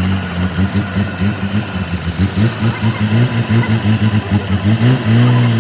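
An engine running at idle, a steady low hum that pulses several times a second.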